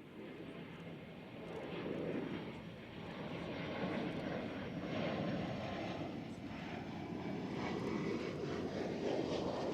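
Engine noise of a fixed-wing aircraft, growing louder over the first few seconds as it comes closer and then staying loud.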